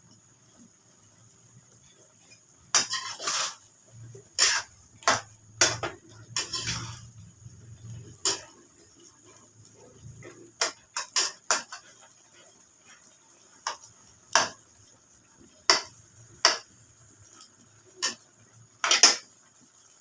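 Metal utensil clinking and scraping against cookware in irregular sharp knocks, about fifteen of them, the loudest near the end.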